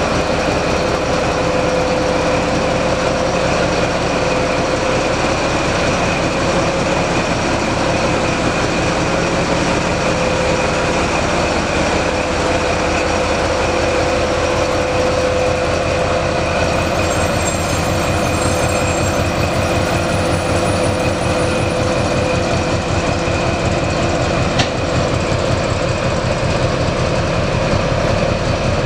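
TGM6D diesel-hydraulic shunting locomotive running as it rolls slowly past, followed by empty container flat wagons whose wheels beat a regular clickety-clack over the rail joints. A steady whine runs through it, and there is one sharp knock near the end.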